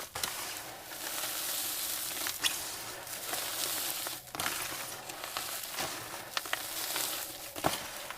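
Gym chalk coated in baking soda paste being crushed, crumbling with a steady gritty crackle and a few sharp cracks.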